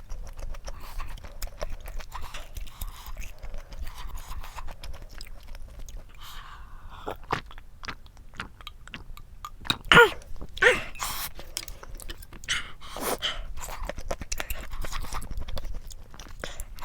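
Close-miked chewing and wet mouth clicks of someone eating, with a few louder, sharper sounds about ten seconds in.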